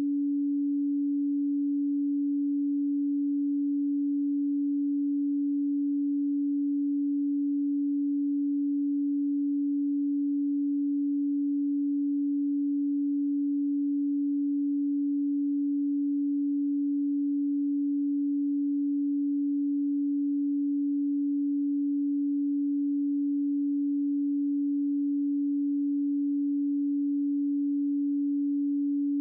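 A pure 285 Hz sine tone, one steady low hum that holds unchanged.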